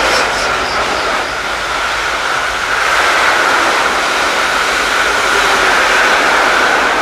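A freight train of hopper wagons passing: steady loud rolling noise of wheels on rail, with a steady high-pitched whine running through it.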